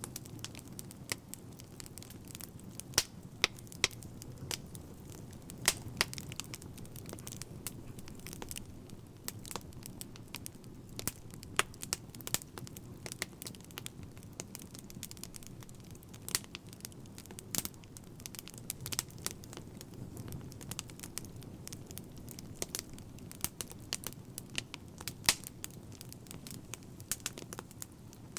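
Wood fire crackling: a steady low rumble of flames with irregular sharp pops and snaps, a few of them louder.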